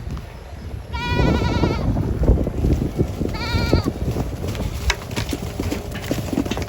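Two high, quavering bleats from a goat or sheep, the first about a second in and the second shorter at around three and a half seconds. A low rumble and scattered knocks run underneath.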